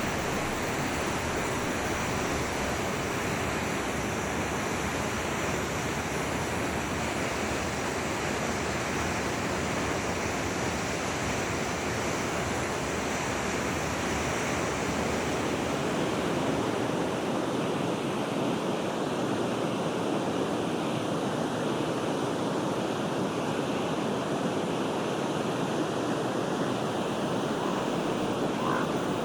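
Steady rushing of a flowing forest stream, with its tone shifting slightly past halfway.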